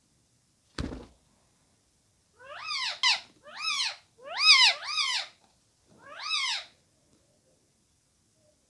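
A series of about six meow-like calls, each rising then falling in pitch, some in quick pairs, preceded by a single short thump about a second in.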